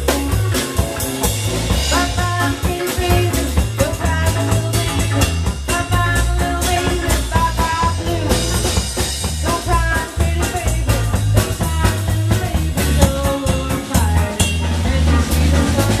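Live blues band playing, with drums and a steady low bass pulse under a melodic lead line.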